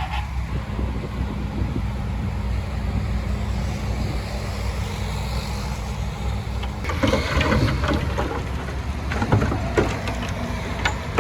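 Heavy earthmoving machine's diesel engine running steadily. From about seven seconds in, a dense crunching and rattling of soil and stones joins it.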